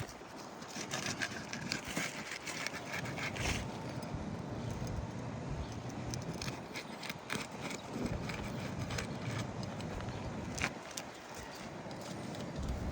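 Irregular scraping, clicking and knocking of hand work on a shingle roof while a damaged shingle is removed, with one sharper knock near the end.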